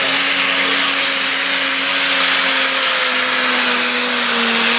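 Tractor-pulling machine's engine running flat out under load: a loud, steady drone over a hissing rush, its pitch sagging slightly as the pull goes on.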